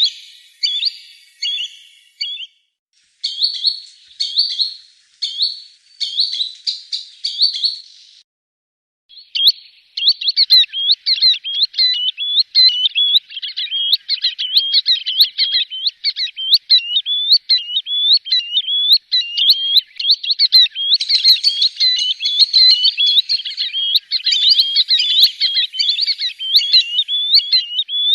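Green sandpiper calls: high whistled notes, at first in separate short calls about once a second with dead silence between them, then, after a brief gap about nine seconds in, a rapid, dense run of overlapping notes.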